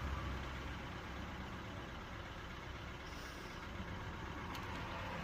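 Steady low mechanical hum of a motor or engine running, with a faint click about four and a half seconds in.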